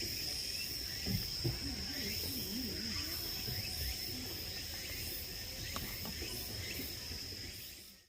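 Insects outdoors making one continuous high, steady buzzing tone, fading out at the end.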